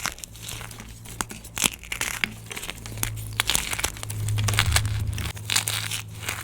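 Gym chalk being crushed and crumbled by hand: a dense, irregular run of sharp crunches and crackles, over a steady low hum.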